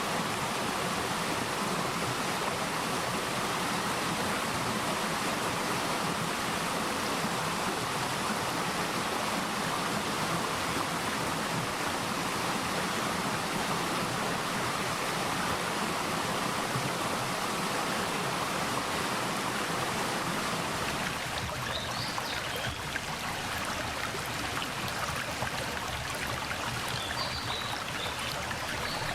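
Mountain valley stream flowing over rocks: a steady rush of water that thins slightly about two-thirds of the way through. Near the end, a few short, high bird chirps sound over it.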